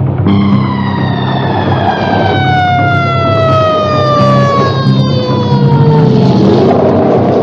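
A siren winding down, one long tone falling slowly in pitch for about six seconds, over background music.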